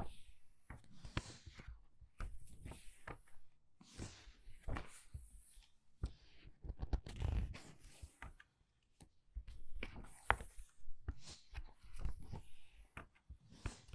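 Book pages being turned quickly by hand: irregular paper swishes, flicks and soft taps, one about every second, with a brief pause about eight seconds in.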